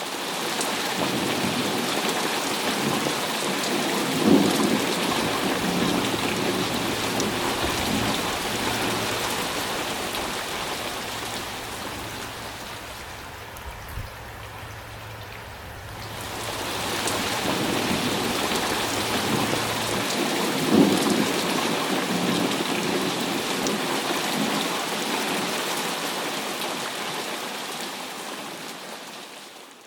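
Thunderstorm: steady heavy rain with rolling thunder, and a sharper thunderclap about four seconds in and again about twenty-one seconds in. The rain eases for a few seconds midway, then comes back, and the whole fades in at the start and out at the end.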